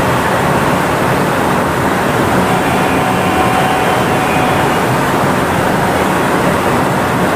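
Kanazawa Seaside Line 2000-series rubber-tyred automated guideway train running steadily, heard from inside car 2441: an even rumble of tyres and running gear, with a faint high tone in the middle.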